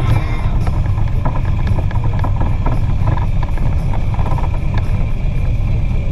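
Motorcycle engine running at low road speed through a bend, with a steady low hum and an even pulsing beat of about four a second.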